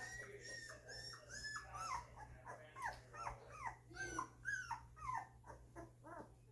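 Two-week-old golden retriever puppies whimpering: a run of short, high squeaks, each falling in pitch, about two or three a second.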